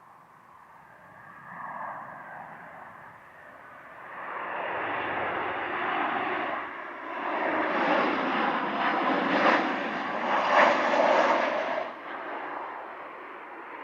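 Jet aircraft engines passing close by, the rushing noise swelling from about four seconds in, loudest in the second half, then dropping away sharply near the end.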